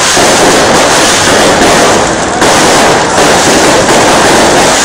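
Fireworks display: a dense, continuous run of loud bangs and crackling from bursting shells, with no pause.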